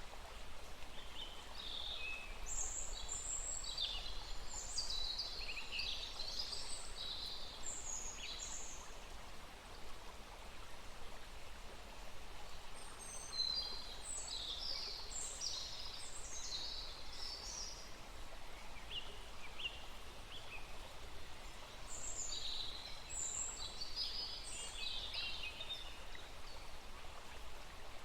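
Small songbirds chirping and calling in quick bouts of high notes, over the steady rush of a small stream.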